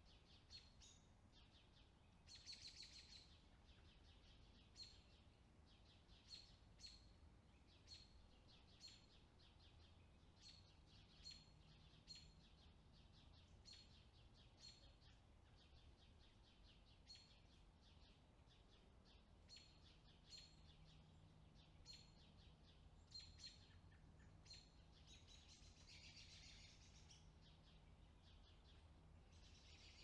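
Faint bird chirps: short, sharp notes about once a second, with a few longer chattering calls about two seconds in and again near the end, over a faint low hum.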